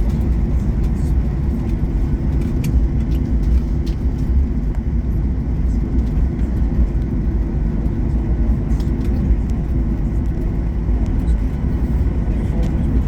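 Steady low rumble of a passenger aircraft's cabin noise after landing, engines and wheels on the ground, with a few faint ticks.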